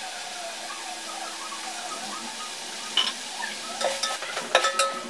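Ginger-garlic paste and onions frying in oil in a metal pot, with a steady sizzle, as a perforated metal spoon stirs and scrapes. In the second half the spoon knocks against the pot a few times.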